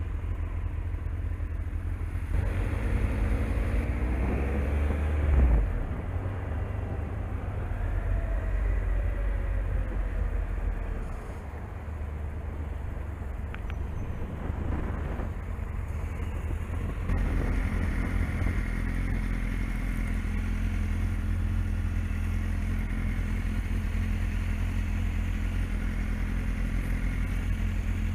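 Motorcycle engine pulling away and easing off as the bike rides, its pitch rising and then falling, then idling steadily from a little past halfway until the end.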